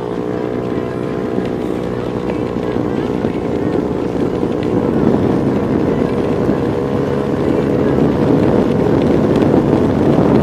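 Motorcycle engine running steadily, with a rushing noise building up and growing louder from about halfway through.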